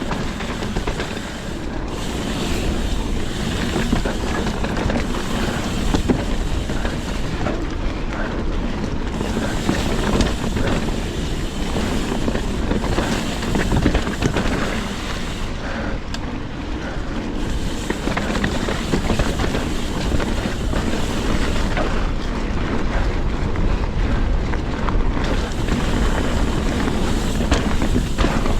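Trek Fuel EX 7 mountain bike rolling down a wet, muddy trail, its tyres and frame giving a steady rumble with many small knocks and rattles, under wind noise on the camera microphone.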